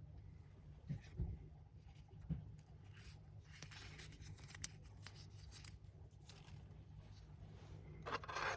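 Scattered handling noises: light clicks, taps and rustles, with a louder rustle near the end, over a faint steady low hum.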